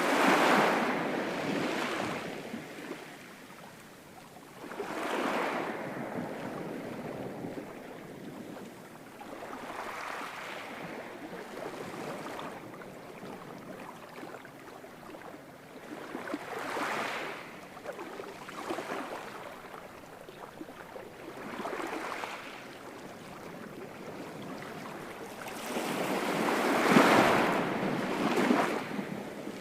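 Ocean waves breaking and washing on the shore in recurring swells every few seconds, the biggest one near the end.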